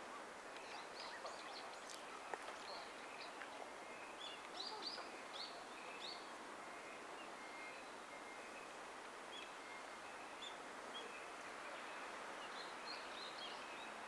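Wild birds chirping: scattered short, high calls, busiest in the first half and again near the end, over a faint steady hiss.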